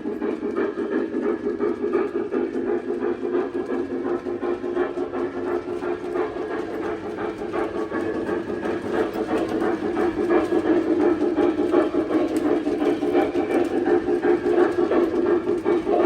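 O-scale three-rail model train running along the track: a steady rumble of motor and wheels with many small clicks over the rail joints, growing a little louder about halfway through.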